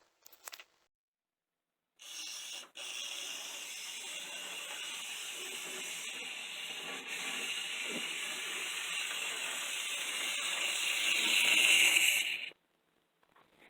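N scale Atlas Plymouth switcher's small electric motor and gearing running fast, a steady high whir that grows louder and then cuts off suddenly near the end. The locomotive runs at only one speed, fast, which the owner has yet to fix.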